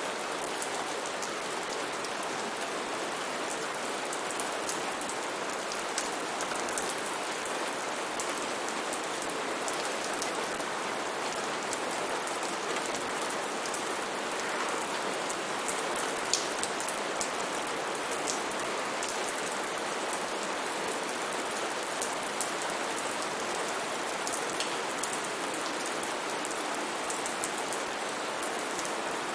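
Steady heavy rain falling on foliage, an even hiss with scattered sharper drips and drop splashes.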